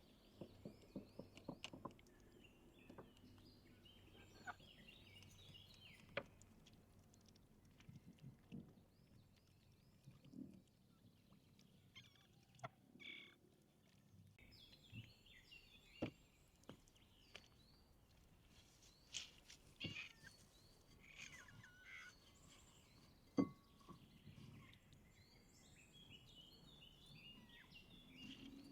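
Birds chirping in the background, with scattered taps and knocks of hand work: a quick run of taps near the start and one sharper knock about two-thirds of the way through.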